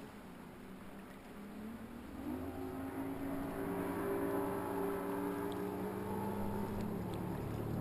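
Motorboat engine drawing closer: a steady motor drone rises over wind noise about two seconds in and keeps getting louder.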